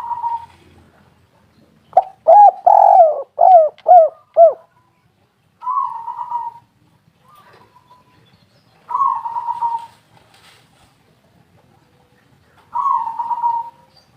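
Spotted doves cooing. A loud phrase of about six coos starts about two seconds in, and three shorter, rolling coos follow a few seconds apart.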